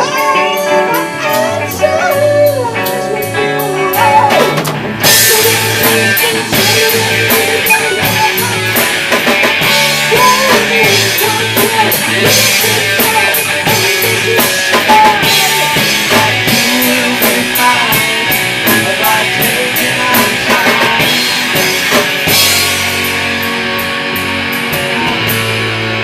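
Live rock band playing an instrumental passage, led by guitar with gliding, bending notes; the drum kit and cymbals come in hard about five seconds in and keep a steady beat.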